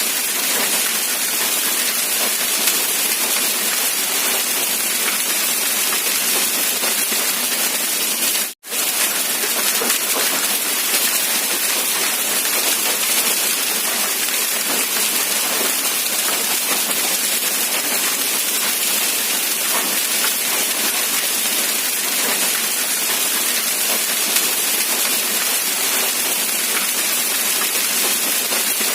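Steady rain, a dense even hiss. It cuts out for an instant about eight and a half seconds in.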